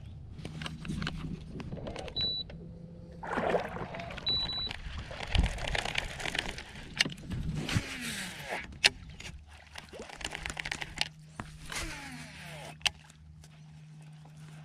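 Clicks, knocks and rustling of fishing gear being handled aboard a kayak, with a steady low hum and two brief high beeps in the first half.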